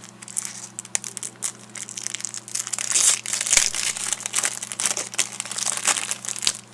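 Crinkling and rustling of the plastic packaging around a replacement GPS digitizer touch screen as it is handled and taken out, a dense run of small crackles that grows busier about two and a half seconds in.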